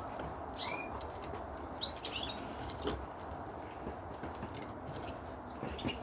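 Caged canaries giving a few short, high chirps, with scattered light clicks over a steady low background hiss.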